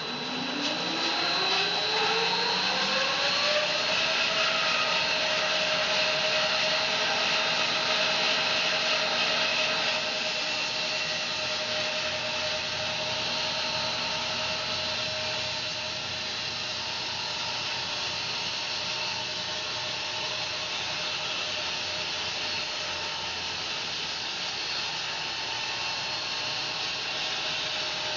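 Home-built bandsaw sawmill speeding up over about four seconds, its pitch rising, then running steadily with a constant hiss; it gets slightly quieter about ten seconds in.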